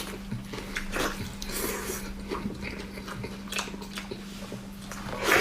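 Close-up eating sounds: wet chewing and lip smacks, a string of short irregular clicks and sucks, over a steady low hum.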